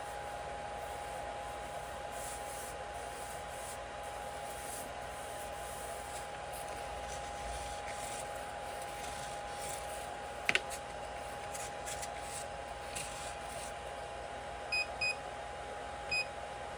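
A 3D printer running with a steady whine over a faint hum of fans. A single sharp click comes about ten seconds in, and near the end there are three short electronic beeps, like the printer's control-panel beeps.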